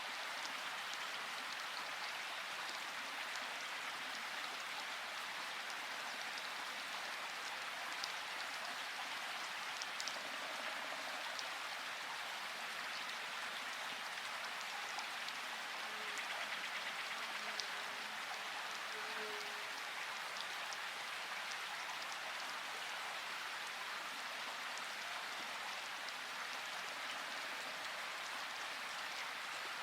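Steady rain, an even hiss of falling water with scattered drop ticks.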